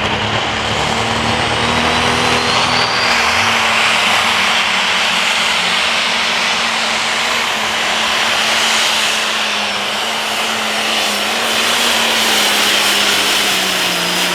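Turbocharged diesel Limited Pro Stock pulling tractor running flat out under load through a pull. It gives a loud steady engine note with turbo whine, and the pitch sags slightly near the end.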